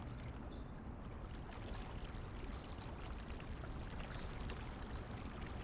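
Faint, steady sound of running water, like a flowing stream, with light splashing ticks.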